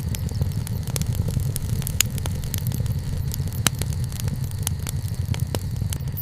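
Wood campfire crackling, with frequent sharp pops and snaps over a steady low rumble; the loudest pops come about two seconds in and again near four seconds.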